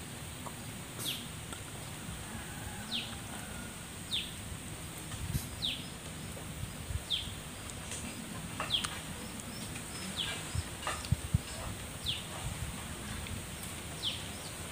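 A bird calling over and over, each call a short falling whistle, about once every one to two seconds, over a steady thin high tone. A couple of sharp knocks about eleven seconds in are the loudest sounds.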